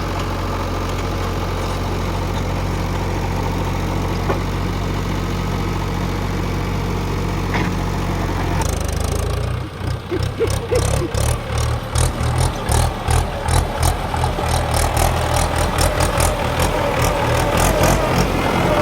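JCB 3DX backhoe loader's diesel engine running steadily at idle. About halfway through the sound changes to a rapid pulsing, rising and falling about twice a second.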